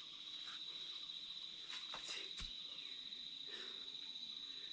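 Insects in the rainforest holding one steady high-pitched drone, with a few faint clicks about two seconds in.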